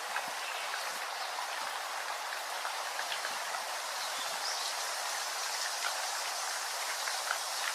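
Steady rain falling: an even hiss with small drop ticks scattered through it.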